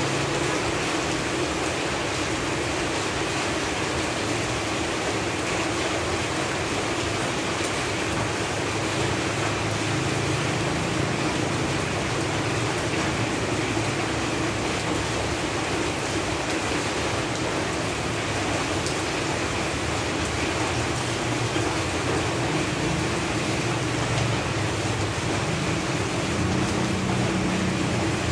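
Steady rain falling on leaves, an even, dense patter with no let-up. A low hum sits underneath and grows a little near the end.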